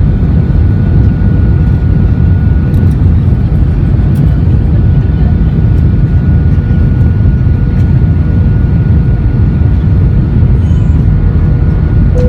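Airbus A320 cabin noise: a steady, loud, low rumble of the jet engines and airflow, with a faint constant whine over it.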